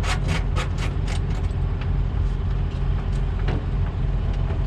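Semi truck's diesel engine running steadily with a low rumble. Over it comes a rapid clicking, about five a second, that stops about a second and a half in, followed by a few single clicks.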